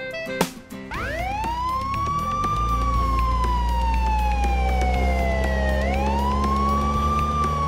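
Police car siren wailing: the pitch rises steeply about a second in, falls slowly over about three seconds, then rises and falls again near the end, over a low steady hum.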